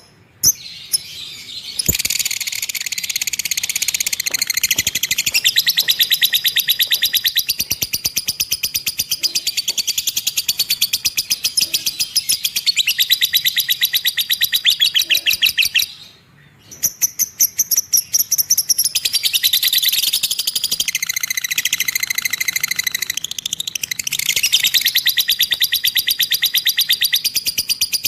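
Lovebird ngekek: a long, very fast chattering trill of evenly repeated notes. It starts after a few short chirps, breaks off briefly a little past halfway, then resumes.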